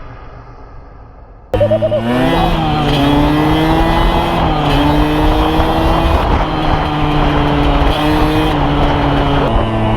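A dirt bike's engine cuts in loudly about a second and a half in. It revs up, runs at a steady speed with small shifts in pitch, and eases off near the end.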